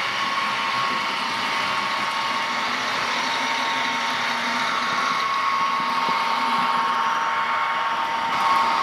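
H0-scale model V200 diesel locomotive running on the layout: a steady whirring drone with a constant high tone.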